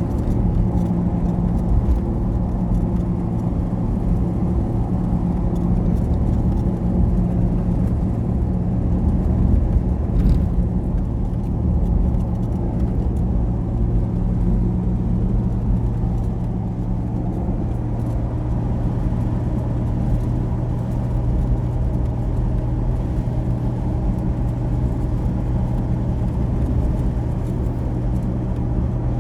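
A motor vehicle running along steadily: a constant low engine hum over road noise.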